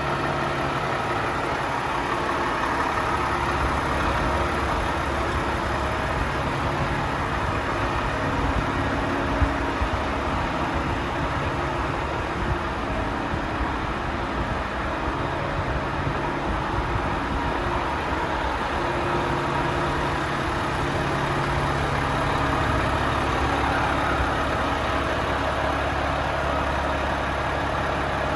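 Volvo FM 450 truck's six-cylinder diesel engine idling steadily, with one short click about nine seconds in.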